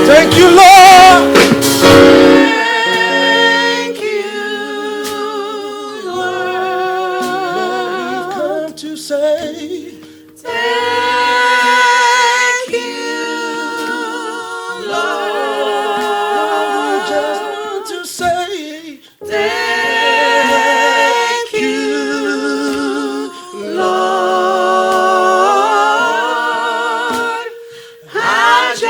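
Gospel worship singing with wavering vibrato in long held phrases, separated by brief pauses. An accompanying keyboard drops out about two seconds in, leaving the voices unaccompanied.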